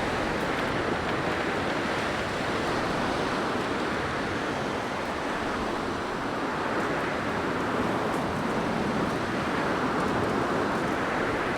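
Blizzard wind blowing, a steady dense rushing that swells and eases slightly.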